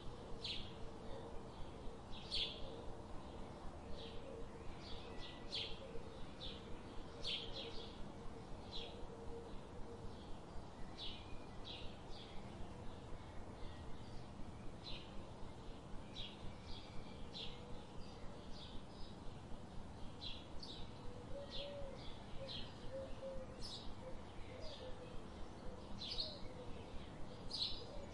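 Birds chirping: short, high chirps about once or twice a second over a steady background hiss.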